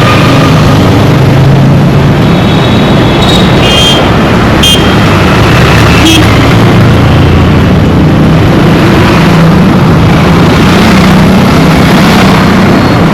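Busy road traffic: engines of cars, trucks and motorbikes running close by as a dense, steady hum, with a few short horn honks between about two and six seconds in.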